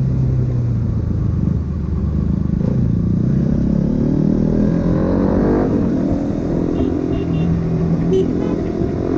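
Motorcycle with an Akrapovic aftermarket exhaust running. Its pitch rises steadily as it accelerates from about three seconds in until nearly six seconds, then settles to a steady run.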